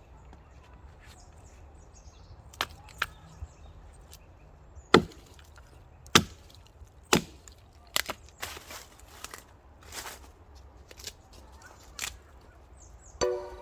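Hand axe chopping firewood: a series of sharp wooden strikes at uneven intervals, the loudest about five and six seconds in.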